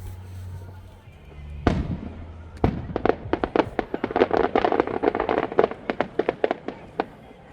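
Fireworks going off: two separate bangs, then from about three seconds in a fast, dense string of cracks and bangs for several seconds before it thins out.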